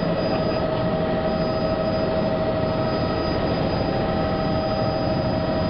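Helicopter in flight heard from inside the cabin: a steady engine and rotor drone with several constant whining tones over it.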